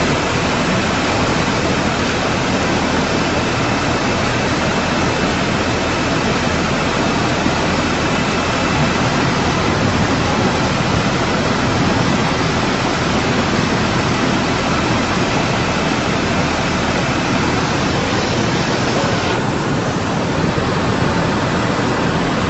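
Loud, steady rush of fast-flowing water, with the high hiss dropping off abruptly about 19 seconds in.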